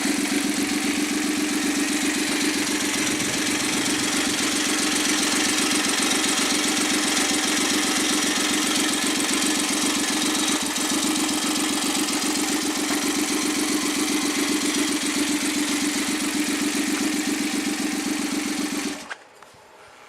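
Suzuki K6A three-cylinder engine, fitted without its turbocharger for a bench test run, running steadily, then shut off abruptly near the end.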